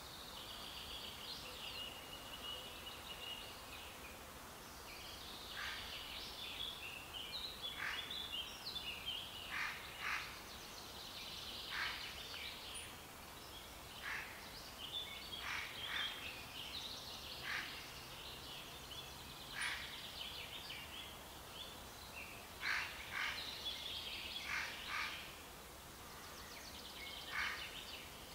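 Songbirds singing and calling: a busy run of high chirps and short notes, several of them quick downward sweeps, over a faint steady background hiss.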